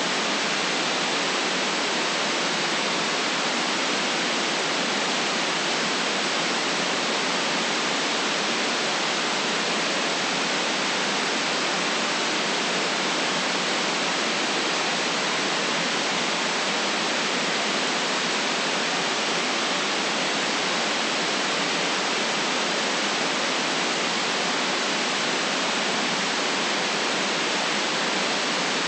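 Steady, unchanging electronic white noise: an even hiss with no deep rumble and nothing above the treble, never rising or falling.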